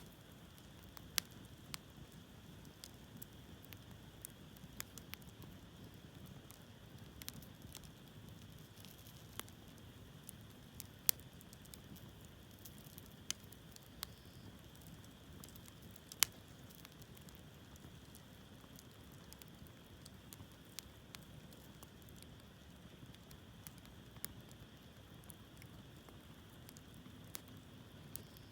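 Hardwood campfire burning in a fire stand: a soft steady rush of flame with scattered sharp crackles and pops from the burning logs, a few louder pops standing out.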